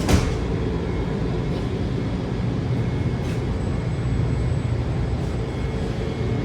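A Washington Metro 7000-series railcar's doors thump shut just after the start. The train then runs with a steady low rumble.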